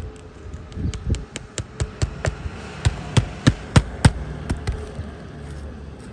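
Hammer driving roofing nails into an asphalt shingle on a roof deck: a quick run of about a dozen sharp strikes, roughly four a second, loudest about three to four seconds in, then tapering off.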